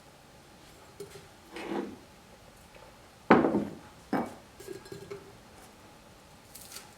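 Dishes and glassware being handled on a kitchen counter: scattered light knocks and clinks, with two louder clunks less than a second apart about halfway through.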